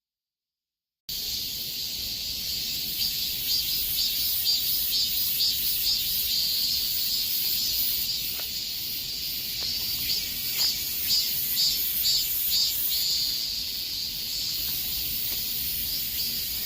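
Cicadas singing: a dense, high-pitched chorus that starts abruptly about a second in after dead silence, swelling and pulsing unevenly.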